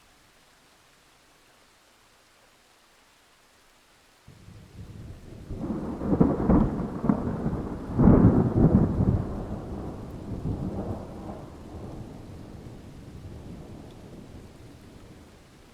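Faint steady rain, then about four seconds in a roll of thunder rumbles in. It peaks twice and dies away slowly over the next several seconds.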